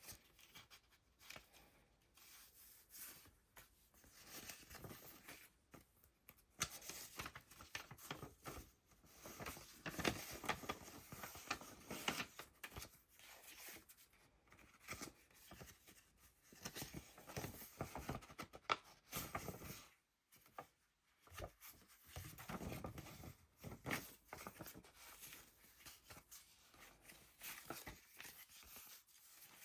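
Pages of a handmade paper junk journal being turned and handled: paper rustling and crinkling in irregular, faint bursts with small clicks, and a brief pause about two-thirds of the way in.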